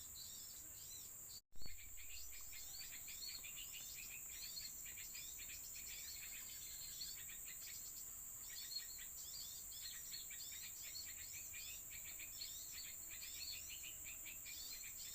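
Small songbirds chirping with rapid, repeated short notes, faint, over a steady high insect drone.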